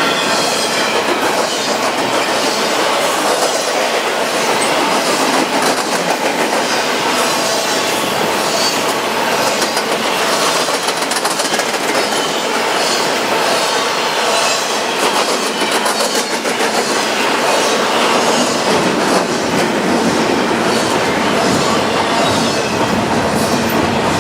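Cars of a CN freight train rolling past at speed: a steady loud rush of steel wheels on rail with a regular clicking of the wheels.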